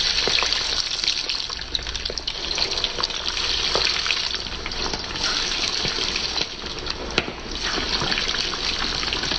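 Jack mackerel patties frying in hot cooking oil, a steady sizzle with scattered crackles; the strong sizzle is the sign that the grease is hot enough.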